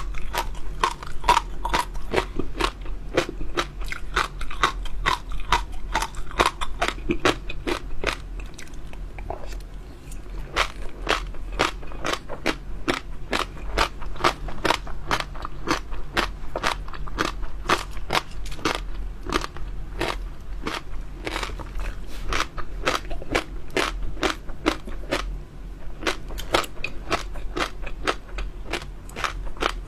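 Close-miked chewing of crunchy jelly pearls: a dense, rapid run of crackling, crunching clicks, easing briefly about ten seconds in.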